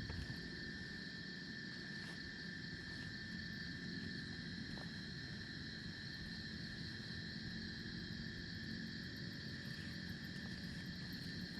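Steady chorus of crickets and other insects, several high shrill tones held without a break, over a constant low rumble.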